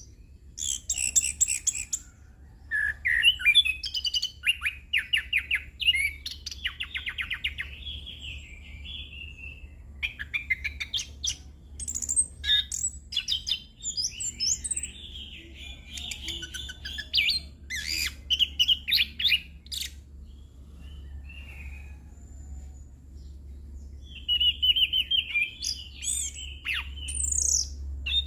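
Chestnut-capped thrush (anis kembang) singing a long rolling song of quick chirps, trills and whistled phrases, full of imitated phrases, with a lull of a few seconds about two-thirds of the way through. A steady low hum runs underneath.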